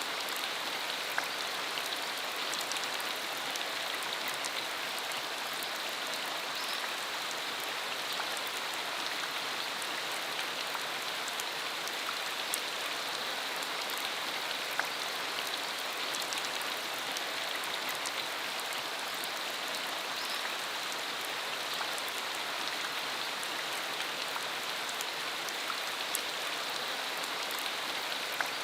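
Steady rain falling, a continuous hiss with scattered individual drops ticking.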